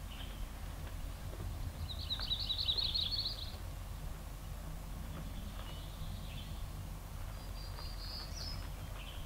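Songbirds calling in forest: a rapid high trill about two seconds in, then two fainter high calls later. A steady low rumble of background noise runs underneath.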